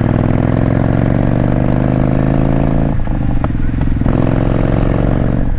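Motorcycle engine pulling under acceleration, its pitch rising steadily, then dropping sharply about three seconds in at a gear change before pulling on again.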